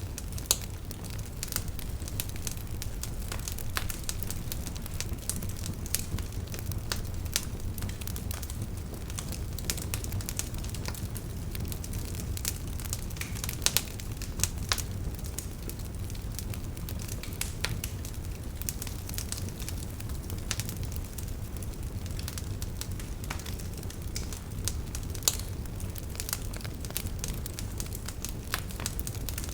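Campfire burning: the wood crackles and pops in irregular sharp snaps over a steady low rumble.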